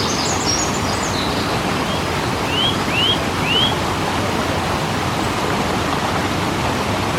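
Waterfall rushing in a steady, even roar of falling water. Birds chirp over it in the first second, then three short rising calls come in quick succession a few seconds in.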